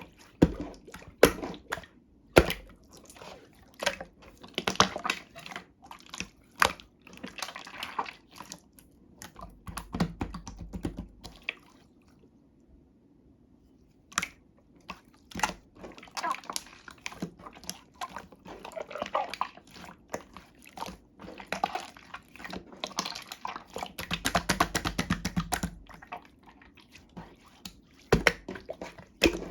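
Slime being squished, pressed and stretched by hand, giving wet, sticky clicks and pops with crackly stretches in between, and a short pause near the middle.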